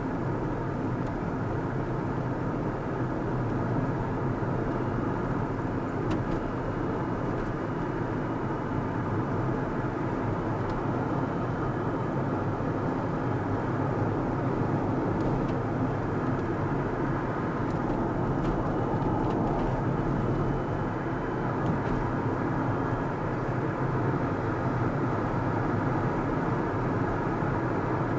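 Car driving along a road: a steady rumble of tyre and engine noise that holds an even level throughout.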